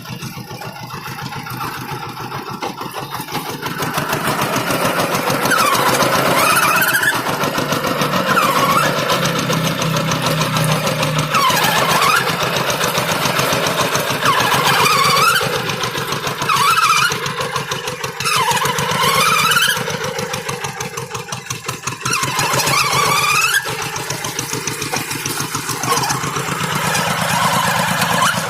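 Two-wheel hand tractor's engine running under load while pulling a moldboard plough, its loudness swelling and dipping. A high squeal glides down and back up every few seconds.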